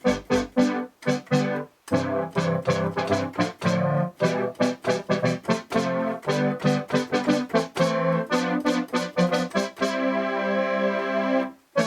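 Roland JX-3P analog polysynth, fitted with the Kiwi-3P upgrade, playing its 'Synth Brass 2' preset: a quick run of short brassy stabs and chords, ending on a held chord that cuts off near the end.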